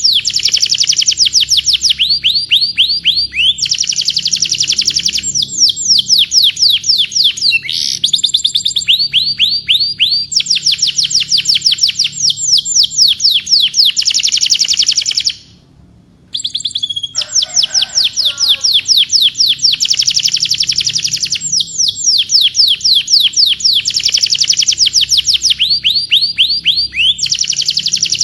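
Domestic canary singing in long fast trills: rapid runs of repeated high down-slurred notes, switching to a new phrase every couple of seconds. The song breaks off for about a second roughly halfway through, then carries on.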